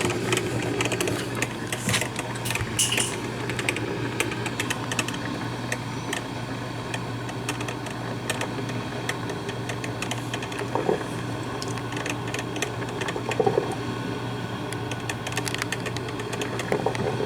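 Black & Decker thermal-carafe drip coffee maker brewing: a steady low hum under rapid crackling, clicking and sputtering as the hot water pushes through.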